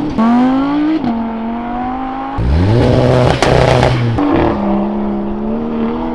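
Modified car engines revving hard as they pull away: one rev climbs in pitch just after the start, and a louder, deeper one climbs from about two and a half seconds in, with a couple of sharp cracks from the exhaust. Between and after the revs the engines hold a steady drone.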